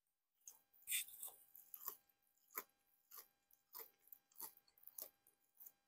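A person chewing crispy Korean fried chicken, with a crunch on each chew, about one and a half a second; the loudest crunch comes about a second in.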